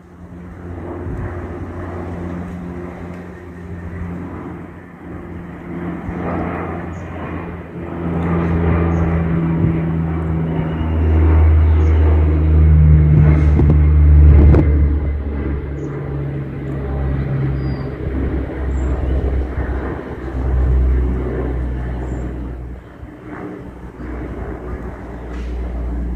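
De Havilland Canada Dash 8-300 twin turboprop taking off low overhead: a loud propeller drone with deep steady tones that swells to its loudest about halfway through, then eases off as the aircraft climbs away.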